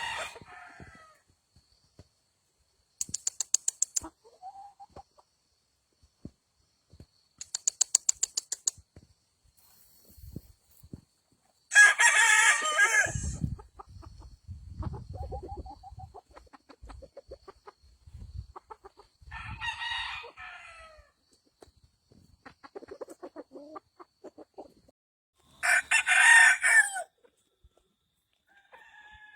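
Gamefowl roosters crowing several times, the loudest crows midway and near the end, with hens or roosters clucking in between. Two short runs of rapid pulses come early on.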